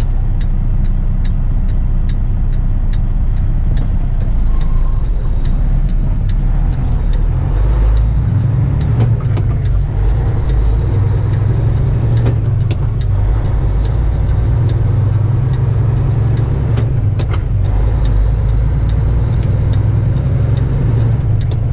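Semi-truck diesel engine running, pulling harder from about eight seconds in. For the first several seconds a turn signal clicks about two to three times a second, and a few sharp knocks come later.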